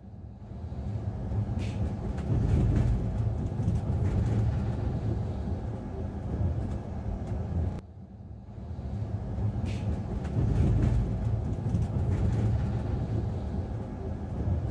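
Passenger train rolling through a station, heard from inside the coach: a steady low rumble of the running coach with scattered light clicks from the wheels and rails. The rumble drops off sharply about eight seconds in and builds up again.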